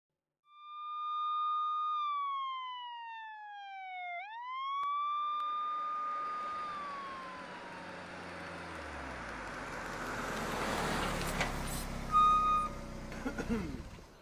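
Police car siren wailing: a held tone that falls, sweeps back up and falls away again. It gives way to the car's engine and tyre noise growing louder, with a short siren blip near the end and a few knocks.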